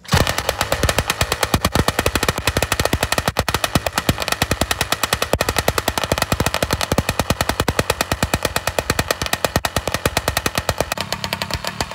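Motorized bicycle's small two-stroke engine catching on one pull and running cold, firing in a fast, rapid popping beat. About eleven seconds in, its low note changes slightly.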